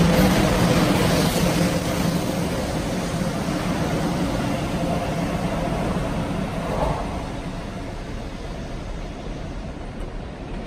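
Hello Kitty Shinkansen, a 500 series bullet train, pulling out of the station. Its steady rumble and wheel-on-rail noise fade as it runs off into the distance.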